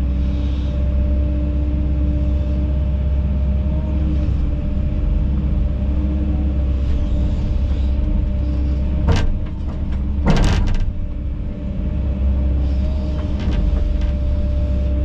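Kobelco SK210 hydraulic excavator's diesel engine running steadily under work, with a held hydraulic-pump whine over the low drone. Two brief sharp noises break in about nine seconds in and again a second or so later, with the engine level dipping briefly after the second.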